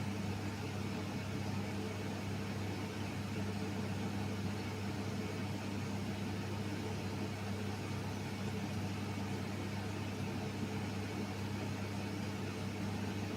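Futon dryer running: a steady electric fan hum with an even rush of blown air.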